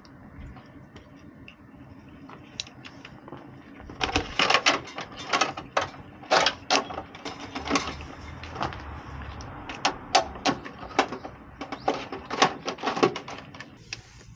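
A quick, irregular run of sharp clicks and knocks, several a second, starting about four seconds in after a quieter stretch.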